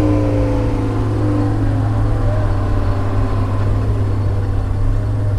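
Heavy diesel engine of log-loading equipment running steadily with a deep hum, a higher whine sliding down in pitch over the first second or so as it eases off.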